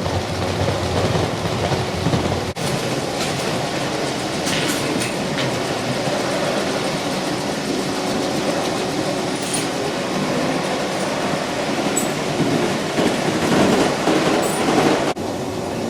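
G-scale model train running along the track: a steady running noise with scattered light clicks. It breaks off briefly about two and a half seconds in and changes abruptly near the end.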